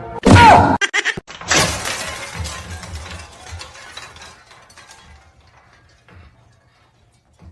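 A sudden loud crash with a brief falling squeal, then a second crash and clatter that dies away over a few seconds, like something knocked over and breaking.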